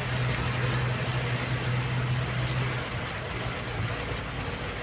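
Inside a moving van in heavy rain: a steady dense rush of rain and road noise, with a low engine hum that drops away about three seconds in.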